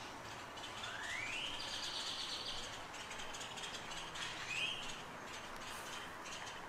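Songbirds calling over steady outdoor background noise. A rising whistled note comes about a second in and runs straight into a high held note, and a shorter call follows past the middle.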